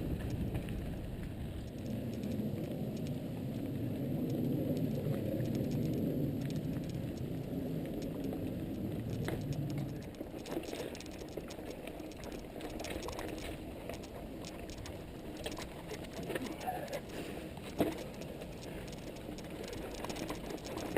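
Mountain bike rolling over a dirt trail: steady tyre noise and rattle, louder in the first half, then quieter with scattered clicks and knocks from about ten seconds in.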